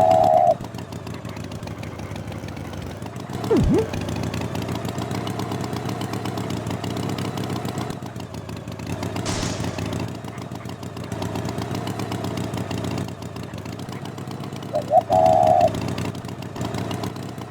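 Engine idling steadily. Short high beeps come at the very start and again about fifteen seconds in, and a quick falling whistle sounds near four seconds.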